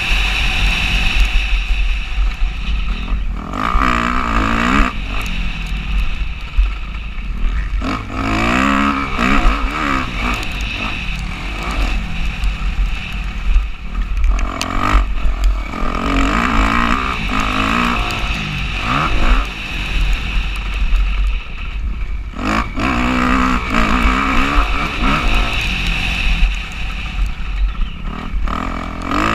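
Motocross dirt bike engine revving up and falling back again and again as it is ridden around the track, its pitch climbing and dropping every second or two, over a constant low rumble.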